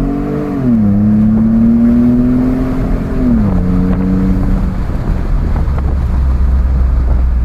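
2016 Ford F-150's 3.5 L twin-turbo EcoBoost V6 through a custom 3-inch stainless catback exhaust with Thermal Dynamics mufflers, accelerating through the gears: the engine note climbs, drops at an upshift just under a second in, climbs again and drops at a second upshift after about three and a half seconds, then gives way to steady road and wind noise.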